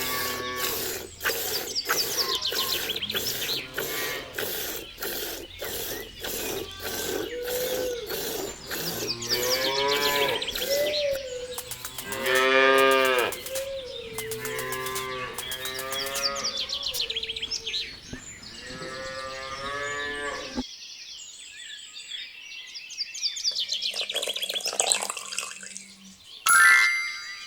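Cattle mooing, several long drawn-out calls one after another and overlapping, over a regular ticking of about two a second. The mooing stops abruptly about two-thirds of the way through, leaving fainter higher chirps and a brief loud sound near the end.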